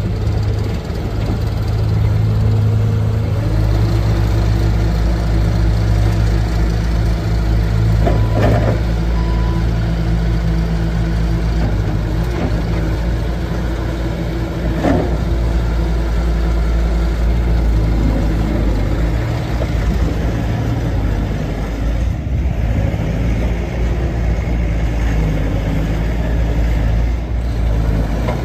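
Bobcat S530 skid steer's 49 hp Doosan diesel engine running steadily, stepping up in speed about three seconds in. Two sharp knocks come about eight and fifteen seconds in.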